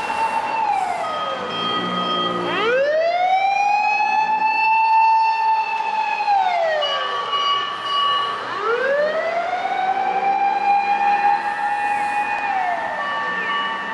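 Japanese fire engine sirens wailing. Each climbs slowly to a high pitch, holds it for a few seconds, then slides back down, about every six seconds, with several sirens overlapping.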